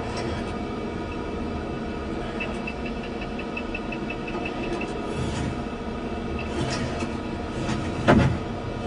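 Layered sci-fi machine sound effects: a steady mechanical hum throughout, with a quick run of high electronic beeps, about six a second, in the middle. About eight seconds in comes a single loud, sudden hit.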